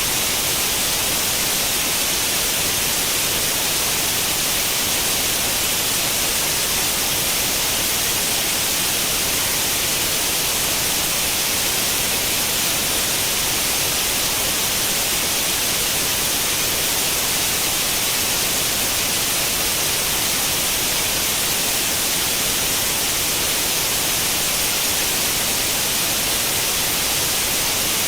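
Steady hiss of static like an old CRT television tuned to no channel, even and unchanging, brightest in the high frequencies.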